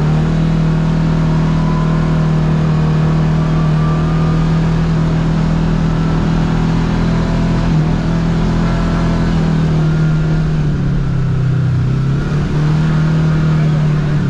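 Kawasaki KRX side-by-side's parallel-twin engine running steadily under way, its pitch dipping briefly about two-thirds of the way through as the throttle eases off.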